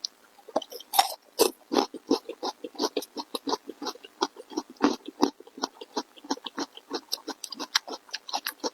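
Close-miked open-mouth chewing: a fast run of wet smacks and clicks, about four or five a second, starting about half a second in.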